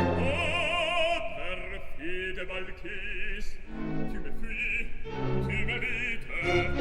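Background music: operatic singing with vibrato over an orchestra.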